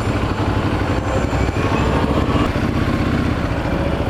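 Yamaha R6 sport bike's inline-four engine running steadily at low revs, with road and wind noise.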